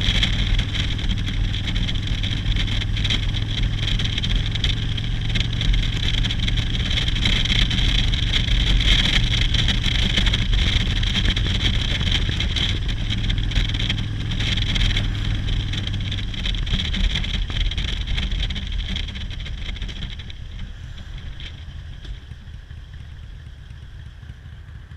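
Motorcycle engine running under way, with a steady hiss of wind and road noise over it. The sound drops off about twenty seconds in, leaving a quieter engine.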